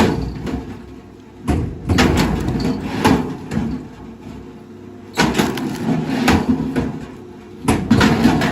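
Wood cracking and splintering in three bursts of dense crackles, each lasting one to two seconds, with quieter spells between them.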